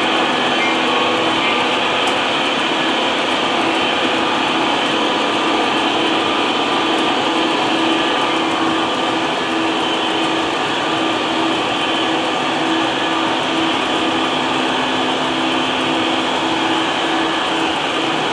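O gauge model train running on three-rail track: steady rolling and motor noise with a pulsing hum.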